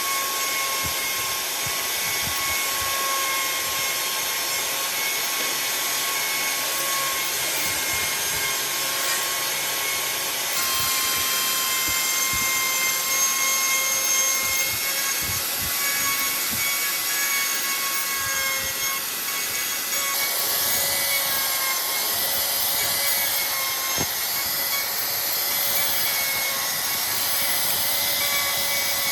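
An electric power tool runs steadily with a constant motor whine as it works wood, grinding or sanding. The tone shifts slightly about a third of the way in and again about two-thirds of the way in.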